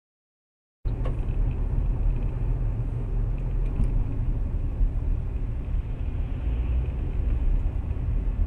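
Steady low rumble of a moving vehicle, like road and engine noise picked up by an in-car camera, cutting in abruptly about a second in.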